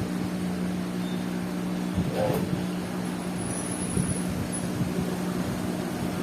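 Steady machine hum, with a few short knocks about two and four seconds in.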